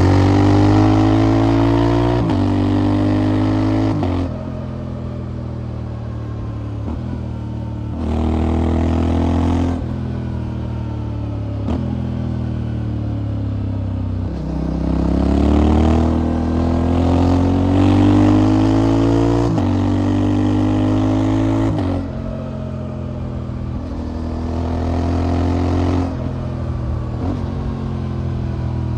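Motorcycle engine under way, accelerating through the gears. Its pitch climbs repeatedly and drops sharply at each gear change, about six times.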